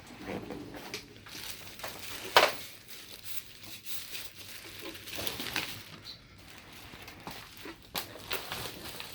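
Rustling, crinkling handling noises with scattered clicks, and one sharp knock about two and a half seconds in.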